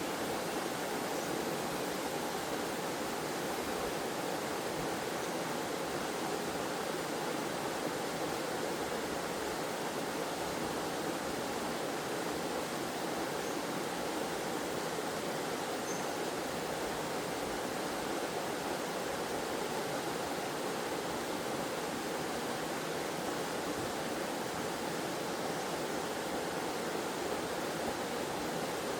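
Forest waterfall with flowing water rushing steadily, an even, unbroken noise.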